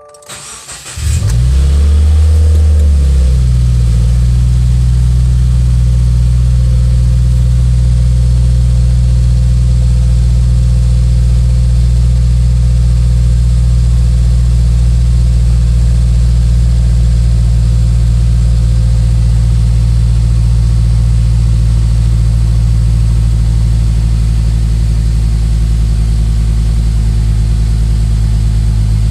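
Subaru WRX's 2.0-litre turbocharged FA20 flat-four cranked on the starter and catching about a second in. It flares up in revs, then settles into a steady fast cold idle, which the owner puts at around 2000 rpm.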